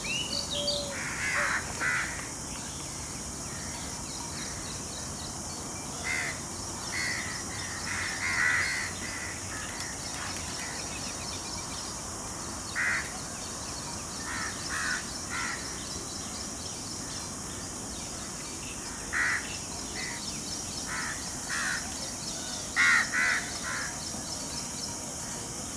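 Birds calling: short harsh calls in clusters of two or three, repeated every few seconds.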